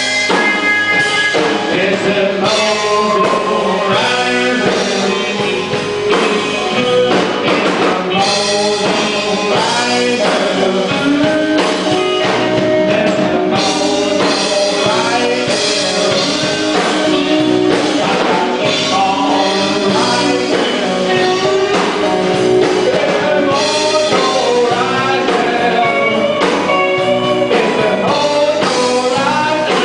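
Rock music with a sung lead vocal over electric guitar and a drum kit, playing steadily throughout.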